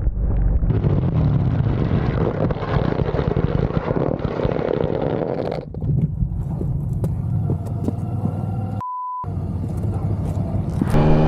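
A motor vehicle running with heavy wind and road noise, which changes abruptly about halfway through to a quieter engine sound. Near the end a short, steady beep tone sounds once, with all other sound cut out under it, like a censor bleep.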